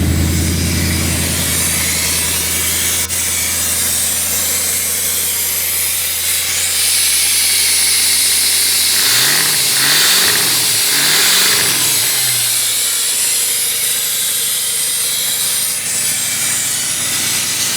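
Freshly rebuilt Cadillac 472 V8 running on its first cold start, steady at first, then blipped twice about two-thirds through, the revs rising and falling each time. A loud hiss runs over the middle part, with the brake booster vacuum hose left off.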